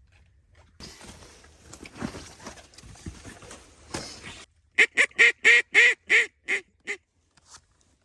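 A run of eight loud, evenly spaced duck quacks in quick succession, the last ones weaker. Before them, a few seconds of rustling, scuffling noise.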